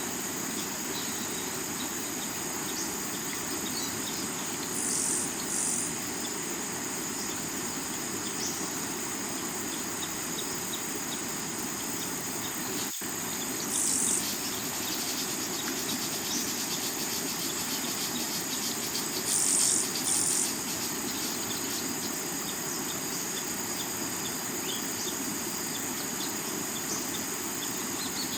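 A river running over rocks as a steady rush, under a continuous high chorus of crickets and other insects with occasional faint bird chirps. Short, louder high-pitched bursts come in pairs twice and singly once. The whole mix cuts out for a split second about halfway through.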